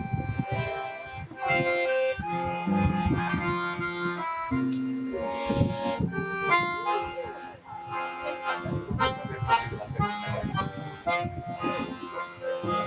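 Accordion and guitar duo playing live, the accordion carrying held chords and melody over plucked guitar notes.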